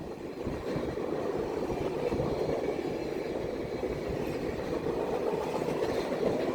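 Union Pacific Big Boy 4014 steam train passing: a steady noise of the train running on the rails, growing a little louder toward the end.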